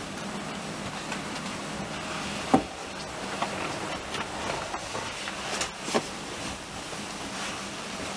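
Steady running noise of a passenger train in motion, heard from inside the carriage, with a few irregular sharp knocks and clicks, the loudest about two and a half seconds in and again near six seconds.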